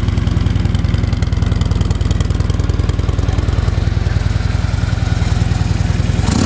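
2011 Harley-Davidson Street Glide's air-cooled V-twin engine idling steadily with an even exhaust beat, running smoothly and sounding good. A short sharp noise comes just before the end.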